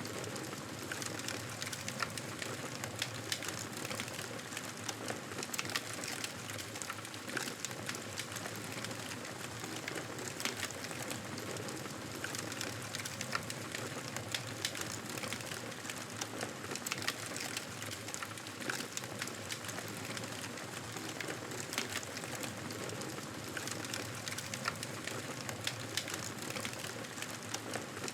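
Fireplace fire crackling: irregular sharp pops and snaps over a steady hiss.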